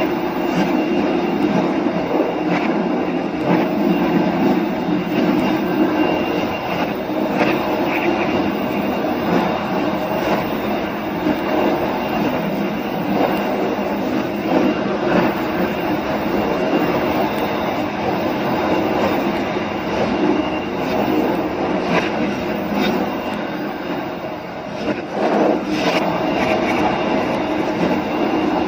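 A train running along the rails: a steady rumble of wheels on track, with scattered clicks and knocks.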